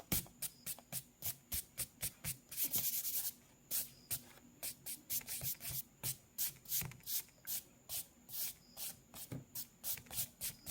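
Quick sketching strokes scratching across paper, about three a second, with a short burst of rapid back-and-forth shading about two and a half seconds in. The strokes stop abruptly at the end.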